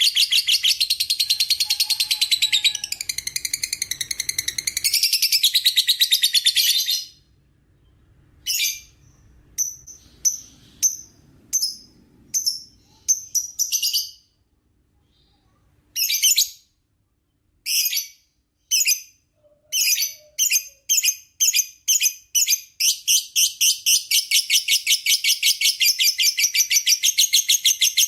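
Lovebird giving its long 'ngekek' chatter: a fast run of repeated shrill notes. About seven seconds in it breaks off into scattered single calls and short bursts with pauses. It then speeds up again into continuous chatter for the last few seconds.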